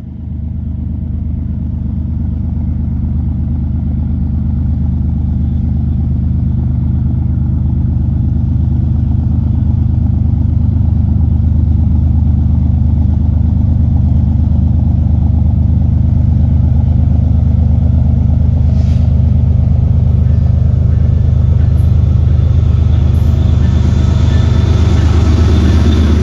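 Diesel locomotive engines running steadily, a deep droning hum that grows louder over the first ten seconds as the train approaches, with a rising hiss of wheel and rail noise over the last few seconds.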